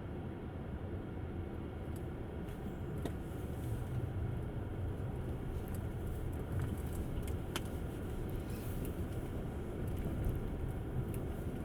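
Steady road and tyre rumble of an electric Tesla Model S driving on snowy roads, with no engine note, and a few faint ticks.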